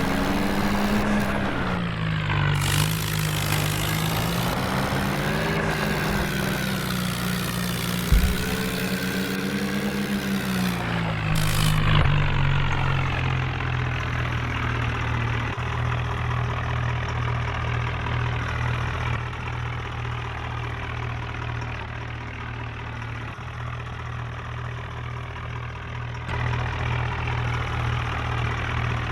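Tractor's diesel engine revving up and down several times, then settling to a steady lower running speed about halfway through. A single sharp knock sounds about eight seconds in.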